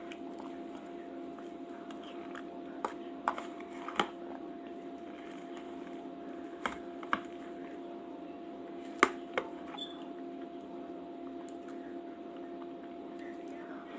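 Eating sounds: a scattering of short sharp clicks and taps, in two clusters a few seconds in and again near the middle, over a steady low hum.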